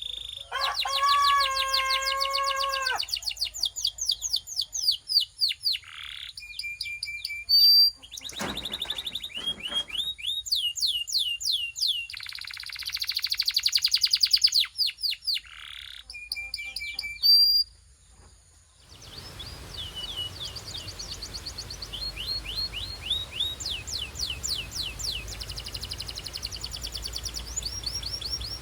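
Belgian canary singing a varied song of fast trills and rolling phrases, opening with a lower, fuller rolling phrase. The song breaks off briefly about eighteen seconds in, then goes on as quick runs of repeated high notes over a steady background hiss.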